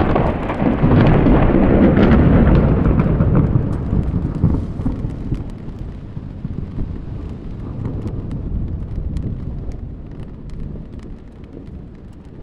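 A roll of thunder: a low rumble that swells in the first second, is loudest about two seconds in, then dies away slowly over the next several seconds, over steady rain and wind.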